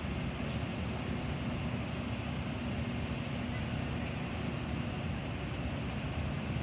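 Steady running noise of a Metra commuter train in motion, heard from inside the passenger car: an even rush of wheel and rail noise with a low hum underneath.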